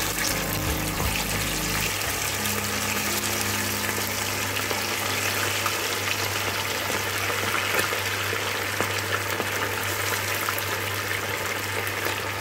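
Marinated, cornflour-coated chicken lollipops shallow-frying in oil in a steel pan over a medium flame: a steady, dense sizzle and crackle.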